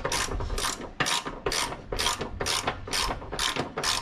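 Hand ratchet wrench being worked back and forth to tighten engine mount bolts, the pawl clicking in quick rasping strokes at about three a second.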